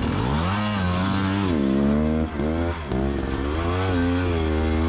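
Dirt bike engine revving up and down as the rider works the throttle climbing a steep hill. The throttle is briefly chopped twice around the middle.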